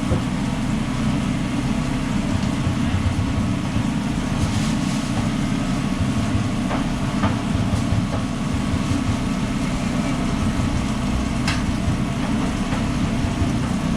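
Steady low mechanical rumble of a food truck's running equipment, with a few sharp clicks over it.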